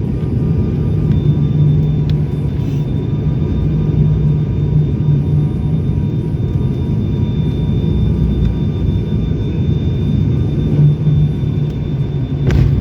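ATR 72-600 turboprop heard from inside the cabin: a steady low propeller drone and rumble with faint steady whining tones above it. A sharp knock comes near the end.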